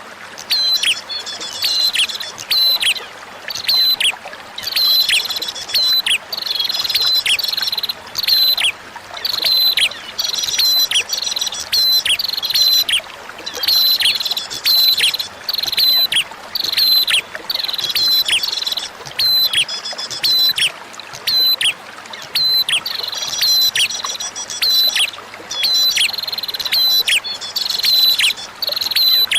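Prinia (prenjak) song: sharp chirps falling in pitch, repeated about twice a second in runs broken by short pauses, over a steady trickle of flowing water.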